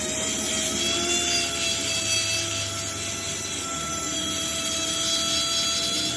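A workshop machine running steadily with a high whine over a hiss.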